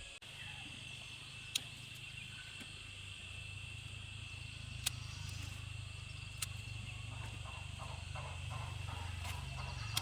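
Insects chirring steadily on a high, even pitch over a low steady rumble, with four sharp clicks spread through it.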